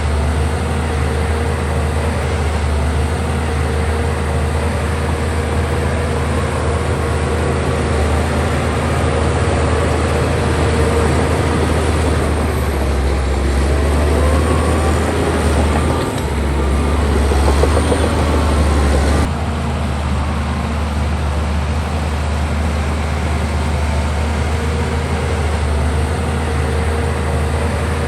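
Bulldozer's heavy diesel engine running steadily under load. Partway through the sound grows louder and busier, with higher shifting tones, then it drops back suddenly.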